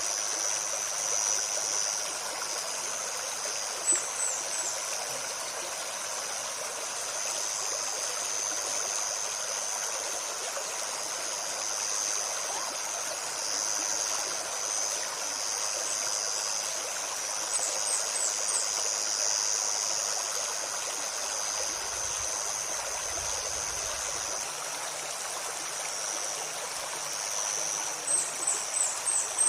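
Shallow river flowing and babbling steadily over stones. High, quick bird chirps come in three short runs: about four seconds in, around the middle, and near the end.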